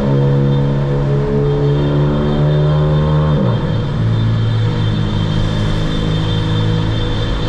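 Volkswagen Polo GTS's turbocharged 1.4 TSI four-cylinder engine, Stage 2 tuned with a sport exhaust, running at steady revs under way; about halfway through the engine speed drops sharply and then holds steady at the lower pitch.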